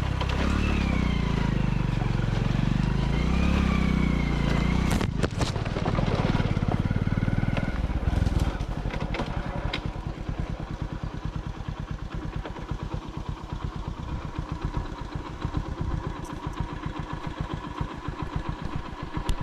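Small single-cylinder commuter motorcycle engine, revving up and down for the first few seconds, with a few sharp knocks around the middle. It then settles into an even, fast putter that runs to the end.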